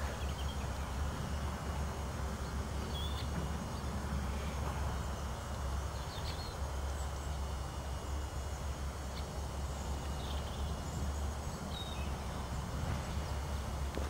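Faint, short chirps of small birds now and then over a steady low rumble.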